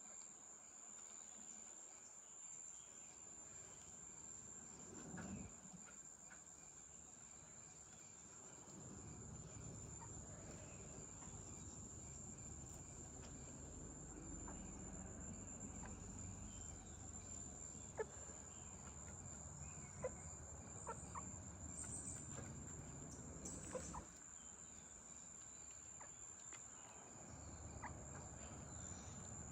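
Faint steady high-pitched insect drone, like crickets, with a few short clucks from chickens scattered through the second half. A low rumble sits underneath through much of the middle.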